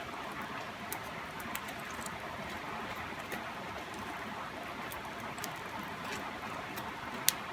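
Steady rushing of a river, with scattered sharp crackles and pops from a campfire burning down to coals; one louder pop near the end.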